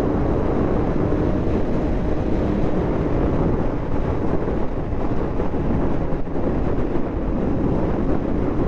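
A motorcycle running at road speed with steady wind noise rushing over the microphone.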